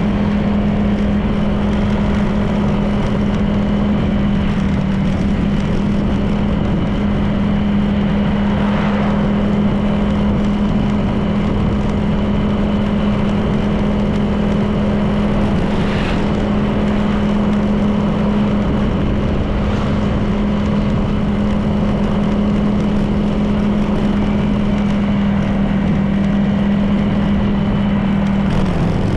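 Honda PCX 160 scooter's single-cylinder engine running at a steady cruising speed, with wind and road noise. The engine note drops slightly near the end as it eases off.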